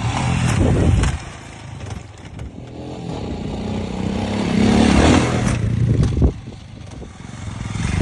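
Royal Enfield Himalayan motorcycle engine revving and accelerating in waves, loudest about a second in and again around five to six seconds, with some clatter and scraping.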